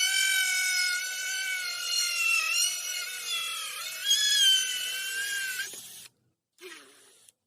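Drill spinning a hole saw in wood: a steady whine that dips and wavers in pitch as the cut loads it, cutting off about six seconds in. A short, fainter sound follows near the end.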